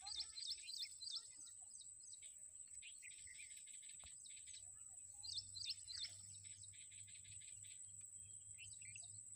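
Small birds chirping in quick runs of short, high notes, once at the start and again about halfway through, over a faint steady high-pitched tone.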